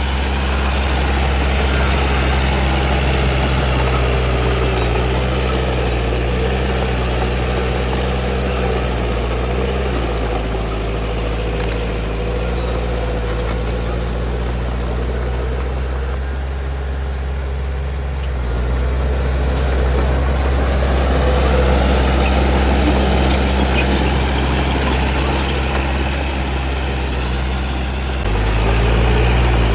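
Heavy diesel earthmoving machinery running steadily at work. Its engine note shifts with load about ten seconds in and again around eighteen seconds, then steps up louder near the end.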